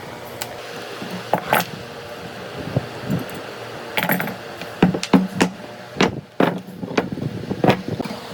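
A series of irregular sharp knocks and taps, a few early and then a quicker cluster in the second half, over a steady background hum.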